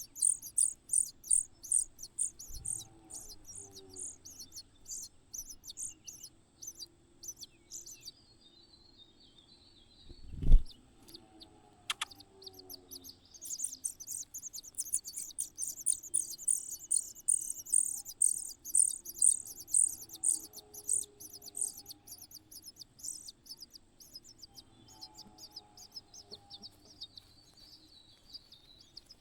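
Nestling birds begging with short, high-pitched cheeps at about two a second. The cheeping breaks off for a few seconds in the middle, where a single dull thump sounds.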